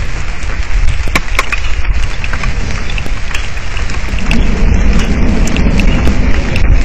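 Heavy rain in a thunderstorm, drops clicking sharply on the outdoor camera's microphone, over a constant deep rumble. About four seconds in, a lower rumble of thunder swells up.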